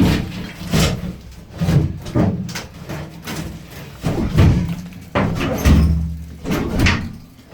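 Irregular heavy thuds and bangs of bathroom demolition, with walls and fixtures being knocked out, about one or two hits a second.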